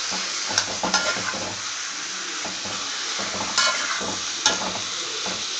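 Chicken pieces and spices sizzling in hot ghee in an iron kadai, a steady frying hiss, with the stirring utensil scraping and knocking against the pan a few times as the mix is stirred.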